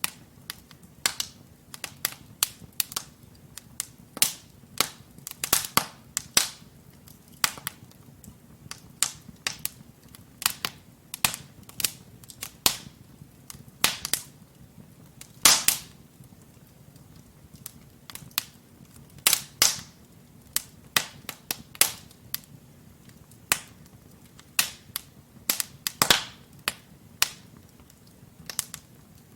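Wood fire crackling: burning logs in a fireplace giving irregular sharp pops and snaps, a few of them louder, over a faint low rumble of the flames.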